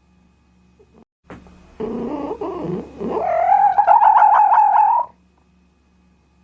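A domestic cat meowing: a lower, rough sound about two seconds in, then one long wavering meow lasting about two seconds.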